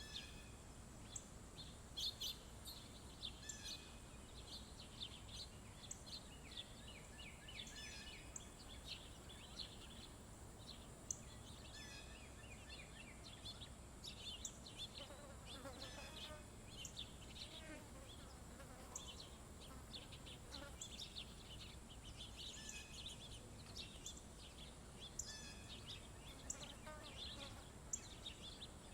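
Small songbirds chirping and calling, with short high chirps coming every second or so and a few fuller descending song phrases about halfway through.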